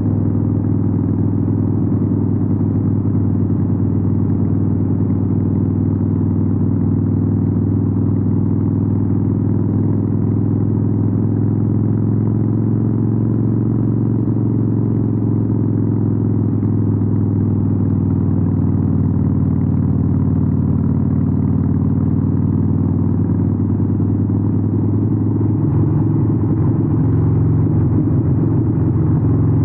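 Harley-Davidson 883N's Sportster V-twin engine running steadily through Vance & Hines aftermarket exhausts, with a low, even exhaust note that shifts slightly near the end.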